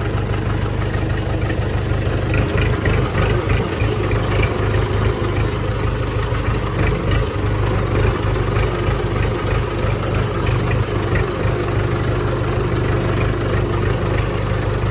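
Mahindra tractor's diesel engine idling steadily with a low, even hum.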